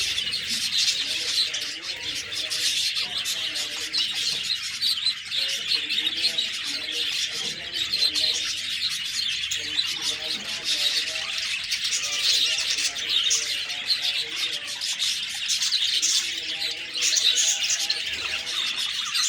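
A group of budgerigars chirping and warbling continuously, many calls overlapping with no pause.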